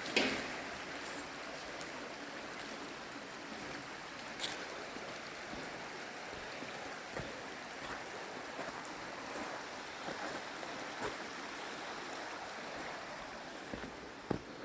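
Creek water running steadily, with a few sharp clicks or knocks over it, the loudest right at the start.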